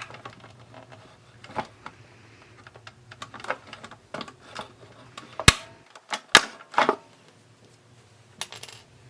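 Irregular clicks and sharp plastic snaps as side cutters work against the radio's plastic case. The loudest snap comes about five and a half seconds in, and two more follow about a second later.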